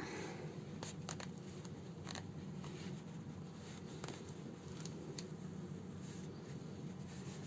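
Hand-sewing a house slipper: a needle and thread drawn through the fabric, heard as faint scratchy rustles and a few small clicks over a steady low room hum.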